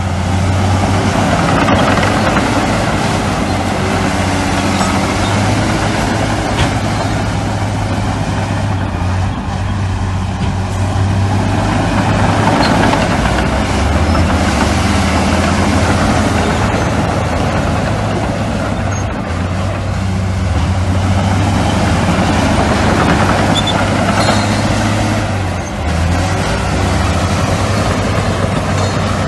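Heavy diesel construction machinery running: a steady, loud low engine hum that shifts in pitch a few times as the machines work.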